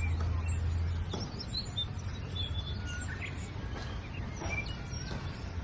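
Birds chirping: many short, scattered high chirps over a steady outdoor background hiss, with a low hum that stops about a second in.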